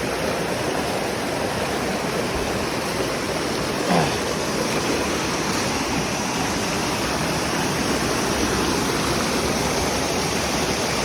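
Water rushing steadily over rocks in a stream below a waterfall, with one short, louder gliding sound about four seconds in.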